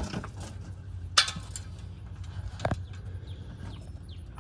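A few sharp knocks and clatters of handling work over a steady low hum, with a brief falling-pitched squeak or call a little before the end.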